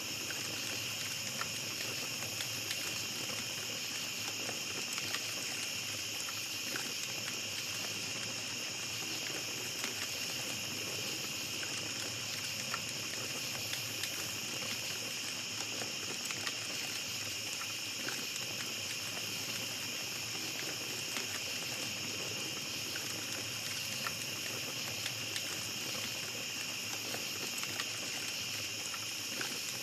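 Steady trilling chorus of night insects such as crickets, with a small wood campfire crackling and giving off scattered sharp pops.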